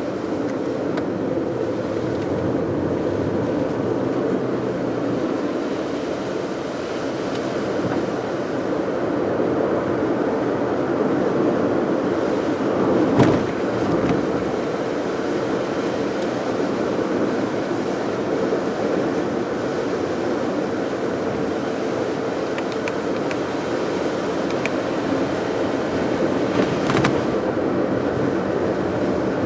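A car driving steadily, its road and tyre noise with a low drone. There is a single short thump about 13 seconds in and a smaller click near the end.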